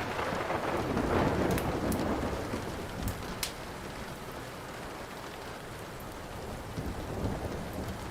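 Steady rain with a roll of thunder that swells in the first second or two and fades away by about three seconds in. A few sharp crackles sound over it.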